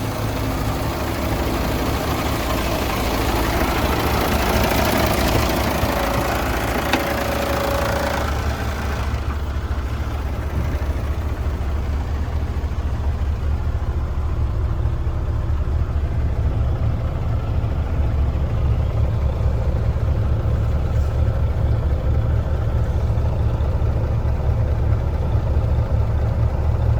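A running engine with a steady low rumble. A brighter hiss lies over it for roughly the first nine seconds, then falls away, leaving mostly the low rumble.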